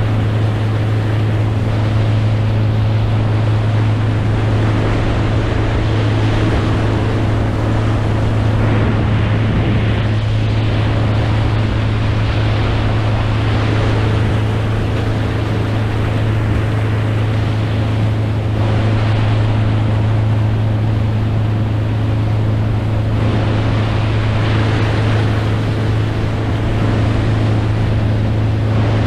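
Boat motor running at a steady speed, a constant low hum over the rush of water and wind.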